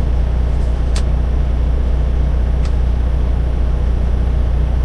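Semi truck's diesel engine idling steadily, a low hum with a couple of faint clicks over it.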